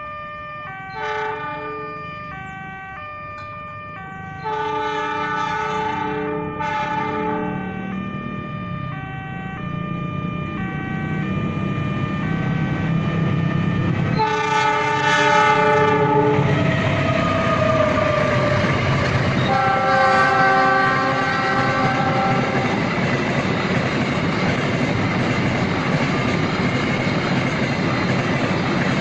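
Freight train approaching and passing, with wheel-and-rail noise building steadily. The locomotive sounds two horn blasts, one at about 14 seconds and another about five seconds later. Before that, a series of short pitched tones steps up and down.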